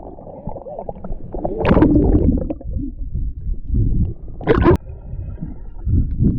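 Pool water sloshing and gurgling against a camera microphone held in or at the water's surface, with two brief louder splashes about two seconds and four and a half seconds in.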